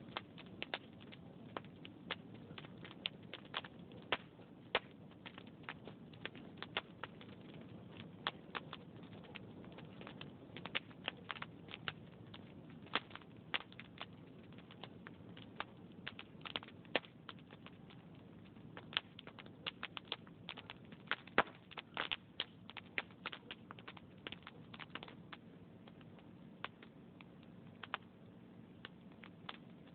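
Wood logs burning in a fireplace: irregular crackling with sharp pops of varying loudness, several a second, over a low steady rumble of the fire.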